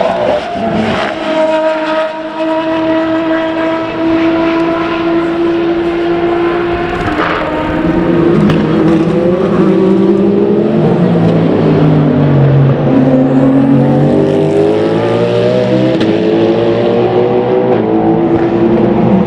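Racing car engines on track at speed. First one engine holds a steady high note for several seconds, then several engine notes overlap, rising and falling as the cars change gear and pass.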